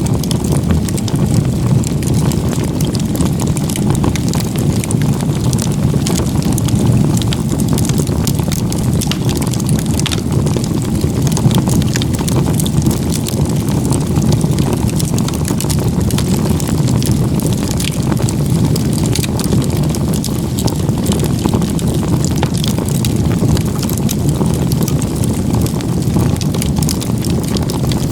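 Firewood burning hard in a log-cabin (igeta-gumi) stacked campfire: a steady low rush of the flames with frequent crackles and pops from the wood.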